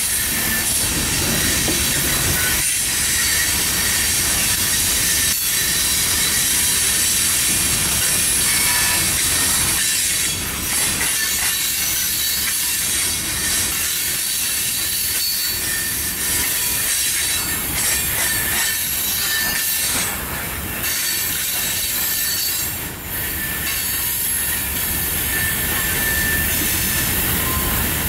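Loaded coal hopper cars rolling past on the rails: steady wheel and rail noise with a thin, high-pitched squeal from the wheels. The noise dips briefly a few times.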